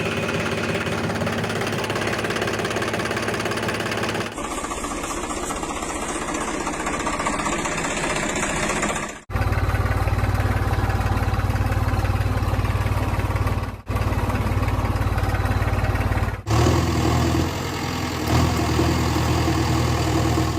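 Engines running steadily at idle in several short clips spliced together, with abrupt changes of sound at each cut; the middle clips are deeper and heavier.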